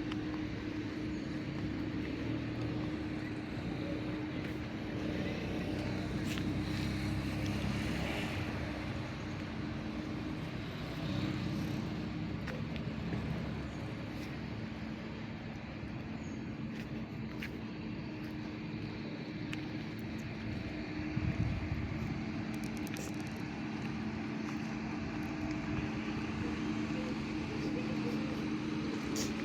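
Steady engine drone with a constant low hum, over continuous outdoor background noise.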